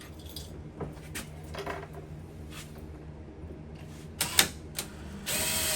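Scattered metal clicks and knocks of door hinges and screws being handled and fitted, with one loud knock about four seconds in. A louder, rushing burst of sound starts near the end.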